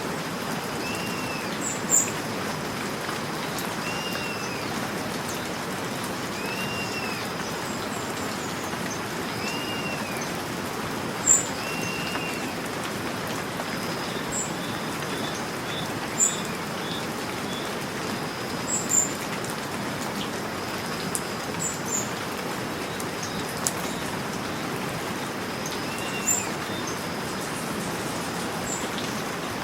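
Steady rain falling. A bird repeats a short, rising-and-falling call every two seconds or so, and sharp high chirps stand out above the rain now and then.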